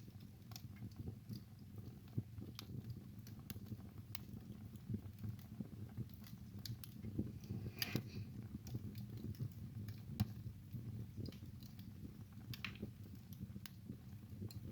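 Wood fire burning in a fireplace: irregular sharp crackles and snaps over a steady low rumble, with one louder snap a little past halfway.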